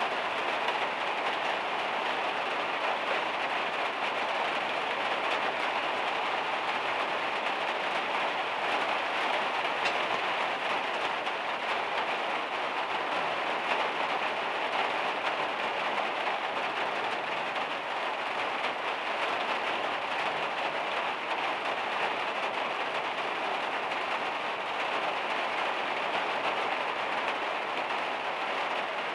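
Heavy rain drumming steadily on a van's metal roof.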